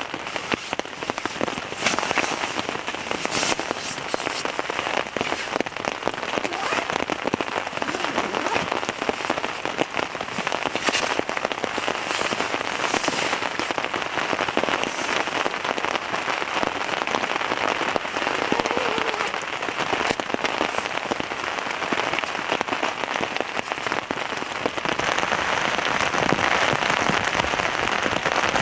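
Steady heavy rain falling on a tent's fabric, a dense patter of drops that grows louder about 25 seconds in.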